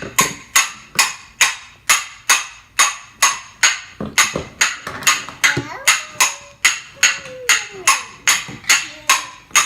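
Steady rhythmic banging in a kitchen: sharp knocks at about three a second, each with a brief ringing tail, kept up at an even pace.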